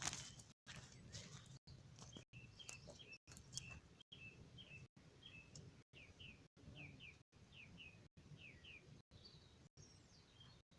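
A bird chirping faintly: a run of short, similar chirps repeated about twice a second. A sharp click right at the start.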